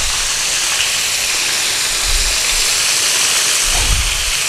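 Flour-dusted fish pieces frying in hot oil in a wok: a loud, steady sizzle.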